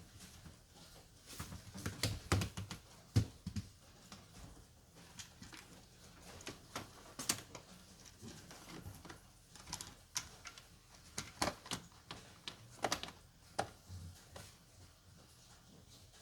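Irregular light clicks and taps, some in quick clusters, as of hand tools and parts being handled.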